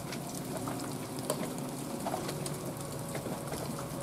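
Rain and wet snow falling, a steady hiss dotted with many small scattered drips and ticks.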